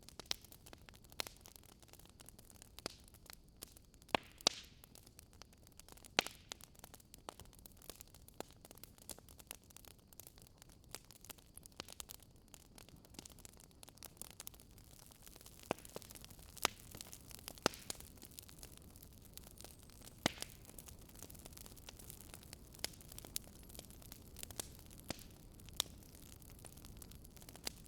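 Wood fire crackling: frequent irregular sharp pops and snaps from the burning wood, a few louder than the rest, over a faint steady hiss.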